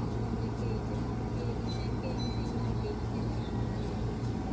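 Steady low hum of a Keihan 3000 series electric train at the station, with no rise or fall in pitch, and faint voices in the background.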